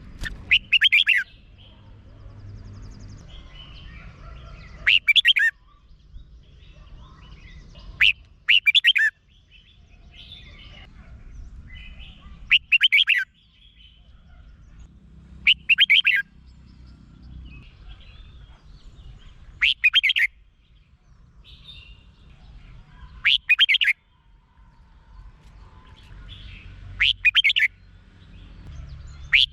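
Red-whiskered bulbul singing: a short, bright warbled phrase about every three to four seconds, over a faint low rumble.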